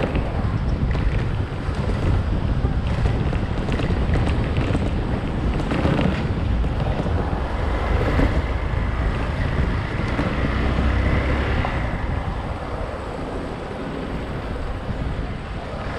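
Wind buffeting the microphone of a riding motorcyclist's camera, with the motorcycle's engine and road noise running underneath. The rush eases a little near the end.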